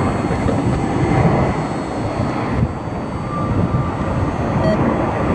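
Jet airliner engines at takeoff power, a loud, steady rumble.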